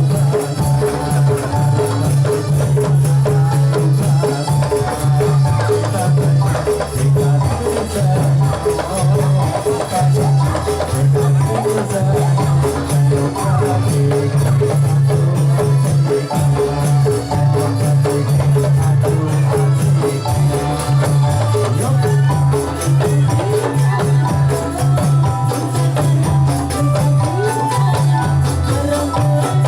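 Instrumental Dolalak dance accompaniment: steady hand percussion over a deep, sustained bass line and held melodic notes, without singing.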